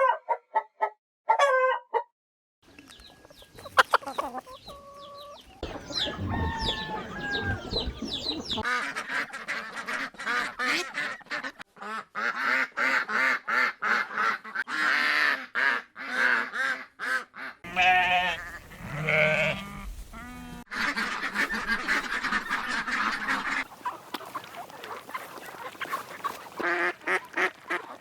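Birds calling in a string of short recordings that change abruptly: dense, overlapping pitched calls through the middle and sparser calls near the end.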